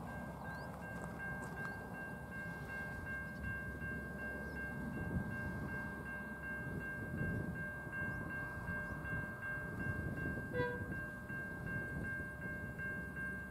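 Diesel-hauled freight train approaching, its locomotive and wagons making a steady low rumble. A level crossing bell rings steadily and high over it.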